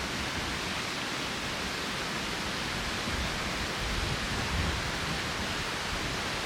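Strong wind rushing steadily through the trees, with gusts starting to buffet the microphone as a low rumble from about halfway through.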